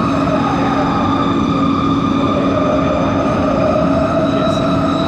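Rail car traction motors running with a steady whine made of several held tones over the rumble of the running train: the unusual motor noise traced to coach 4 of set 70.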